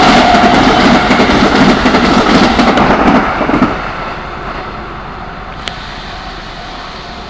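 Keikyu electric train passing close by on the line at a level crossing: a loud rumble of wheels on the rails that drops off sharply about three and a half seconds in as the last car clears, leaving a softer steady noise with a brief click a couple of seconds later.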